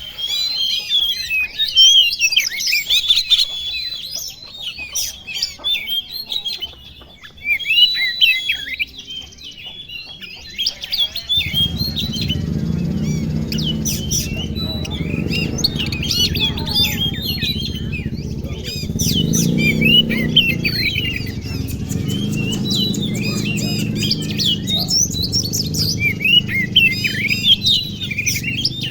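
Several oriental magpie-robins singing together in quick, overlapping chirping phrases. A steady low rumble joins in about eleven seconds in.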